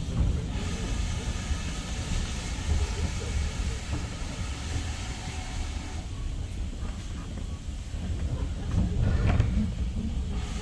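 Steam railway train heard from on board: a steady low rumble, with a hiss over the first half.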